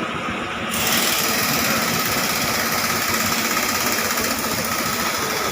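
Royal Enfield Bullet's single-cylinder engine running with a fast, even beat. About a second in, a hiss joins and the sound gets louder, then holds steady.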